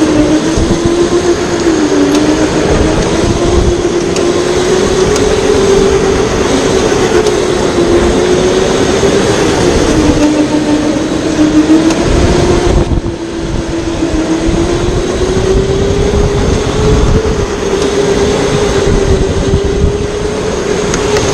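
Electric go-kart running flat out, its motor whining steadily with the pitch sagging and rising as the kart slows for corners and speeds up again, over a continuous rumble of wind and track noise.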